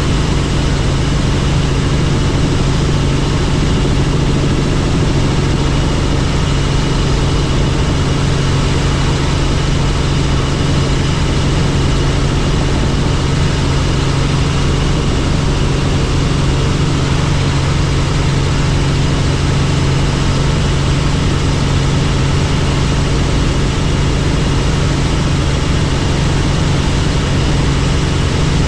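Helicopter in flight: a loud, steady drone of engine and rotor with an unchanging low hum.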